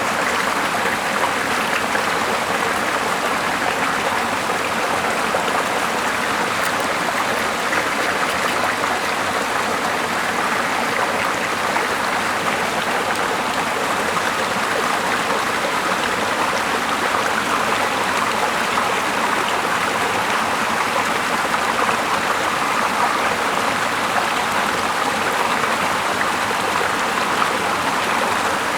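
Small mossy river flowing: a steady, even rush of running water.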